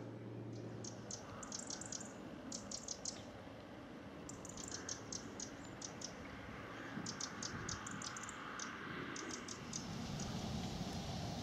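A bird giving rapid, high-pitched ticking calls in several short runs, over a faint steady outdoor background hiss.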